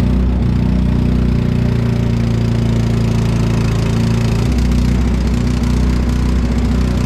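An engine running steadily at a constant speed, its note shifting slightly about halfway through.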